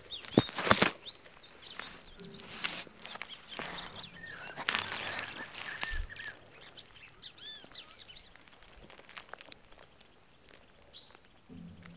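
Small songbirds chirping with short, arching calls, several at a time, with a few brief noisy bursts, the loudest just under a second in.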